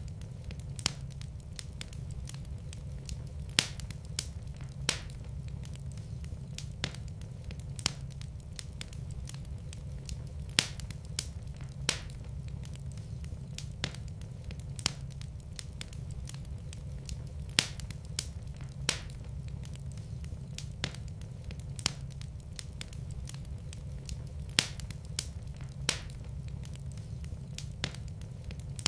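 Wood fire burning in a fireplace, with a steady low rumble of the flames and sharp, irregular crackles and pops of the burning wood.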